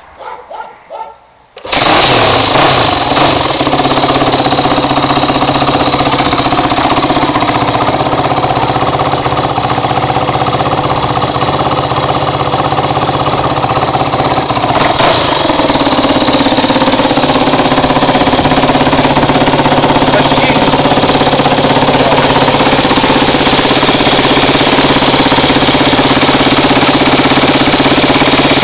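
Yamaha WR250F's single-cylinder four-stroke engine firing up through its Higashi exhaust, catching suddenly about two seconds in and running loud at idle. About halfway through its note changes slightly, then it settles into a steady idle.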